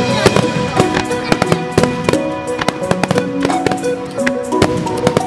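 Fireworks aerial shells bursting, with many sharp bangs and crackles in quick irregular succession, over music with held notes.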